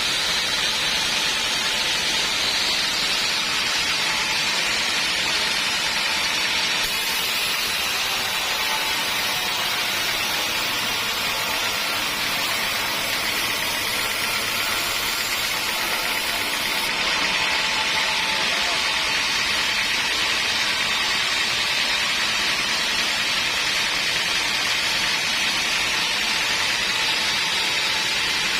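Homemade band sawmill running through a teak log, a steady, even sawing noise that holds at one level.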